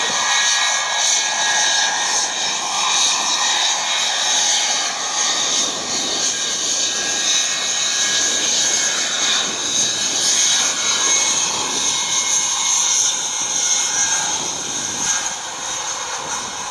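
Boeing 717-200's twin BMW Rolls-Royce BR715 turbofan engines running during takeoff: a steady loud jet noise carrying several high whining tones, easing slightly near the end.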